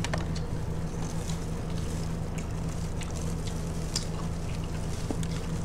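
Close-up eating sounds of fried chicken wings being chewed: scattered small clicks and crackles over a steady low hum.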